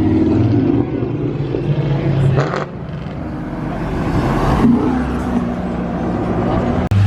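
Muscle car engines running and revving as cars pull out, one building up to a loud pass about four and a half seconds in.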